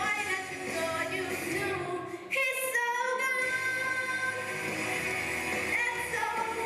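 A song with a woman singing long held notes over a pop backing track, with a brief drop and a rising slide in the voice about two seconds in.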